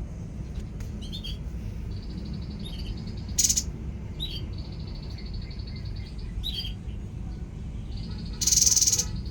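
Songbird calling: short falling chirps, long even high trills, and two loud harsh buzzy bursts, one in the middle and one near the end, over a steady low rumble.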